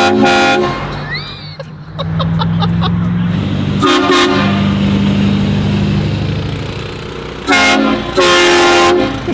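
Aftermarket air train horns blasting four times: a short blast at the start, one about four seconds in, then two close together near the end, each a loud multi-note chord. A vehicle runs steadily underneath.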